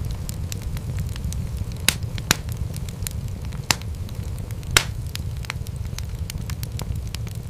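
Wood fire crackling: a steady low rumble of flames with frequent small snaps and four louder pops in the first five seconds.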